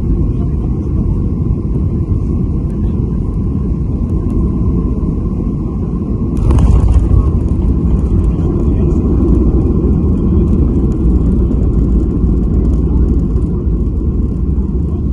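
Airliner cabin noise during landing: a steady low rumble of engines and airflow with a faint steady whine. About six seconds in, a sudden burst of noise sets in and the rumble stays louder afterwards.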